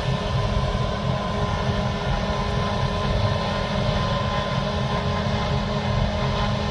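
Heavy diesel harvest machinery running steadily at working load, a constant rumble with a steady hum and whine over it.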